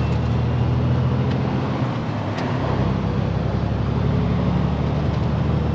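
Truck diesel engine running steadily, heard from inside the cab as a low drone, with a brief drop about two seconds in followed by a single click.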